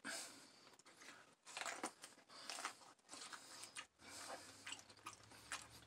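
Faint biting and chewing on corn on the cob: a scatter of soft, short crunches as the kernels are bitten off the cob and chewed.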